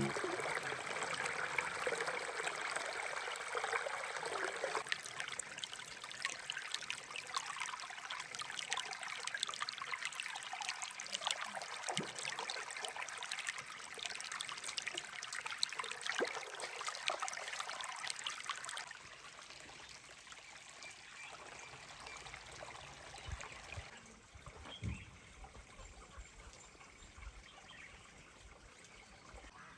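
Water trickling and splashing steadily, then falling away sharply about two-thirds through to a much fainter background.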